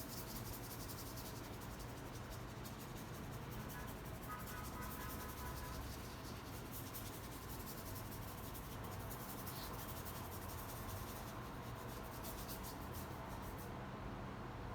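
Faint scratchy strokes of a paintbrush working paint onto canvas, over a steady low hum.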